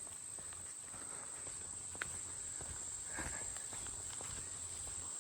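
Insects trilling steadily at one high pitch, with faint footsteps on a trail and a small click about two seconds in.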